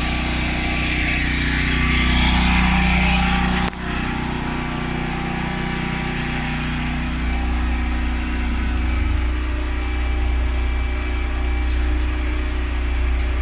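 Refrigerator compressor running with a steady low hum while refrigerant is being charged. A hiss sits over it for the first few seconds, and the sound breaks off briefly about a third of the way in.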